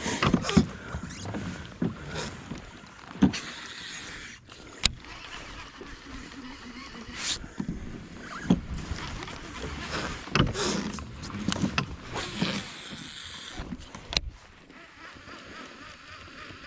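Irregular knocks and clatter of gear being handled aboard a fishing kayak on the water, over a steady background of noise.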